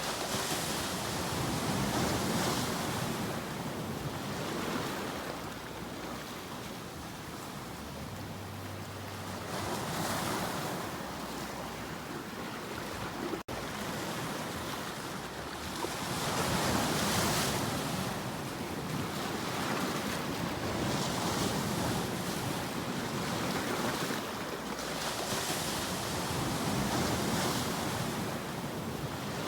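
Ocean surf, waves breaking and washing in, swelling and easing every few seconds. The sound cuts out for an instant about halfway through.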